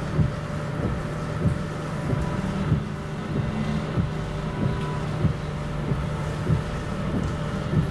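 A vehicle engine running with a steady low hum over a wash of noise, and a short thump about every second and a quarter.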